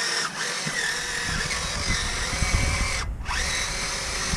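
Electric motors of an RC4WD radio-controlled bulldozer whining as they run, under the control of a Sabertooth dual motor controller. They stop briefly about three seconds in and spin back up with a rising whine. A low rumble joins from about a second in.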